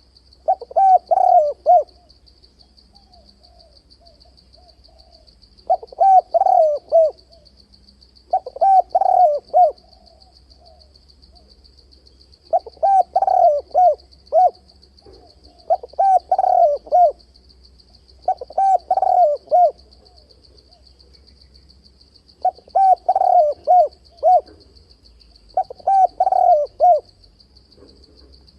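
Spotted dove (cu gáy) cooing: about eight loud phrases of several coos each, coming every two to three seconds, with fainter coos in between. It is a call meant to stir up rival males for fight-trapping.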